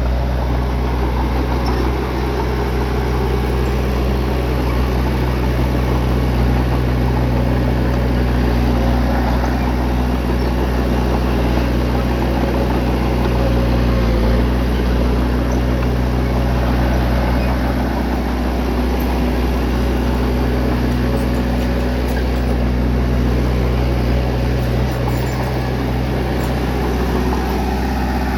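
Bulldozer's diesel engine running steadily under load, with a constant low drone and no pauses.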